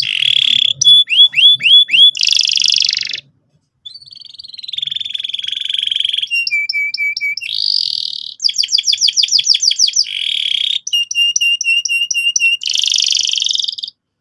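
Domestic canary singing a long, loud song made of fast trills and rolls, each phrase one syllable repeated rapidly before it switches to the next. The song breaks off briefly about three seconds in and stops just before the end.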